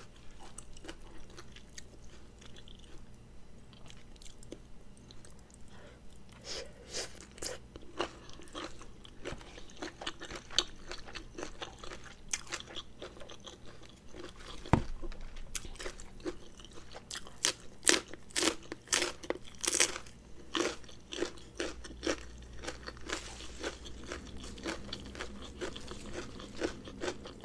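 A person chewing and crunching food close to the microphone: Thai rice-noodle salad with shrimp and raw vegetables. Irregular crunches and mouth sounds come more often and louder in the last third, with one sharp click about halfway through.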